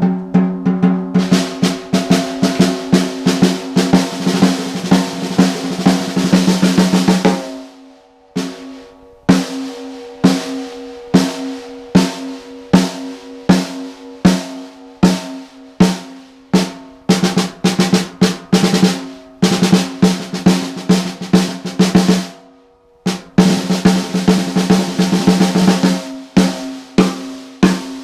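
6x14 PDP Limited Edition wood hoop snare drum played with sticks, heard through a camera's in-room mic. It opens with fast rolls, then slower separate strokes, then dense rolls again twice near the end. The new head is in a low-medium tuning and rings with a steady low pitch under the strokes.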